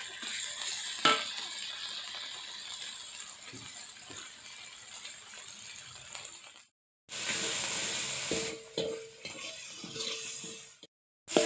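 Ground spice paste sizzling in hot oil in a steel wok while a metal spatula stirs and scrapes it, with a sharp knock of the spatula on the wok about a second in. The sound breaks off abruptly twice.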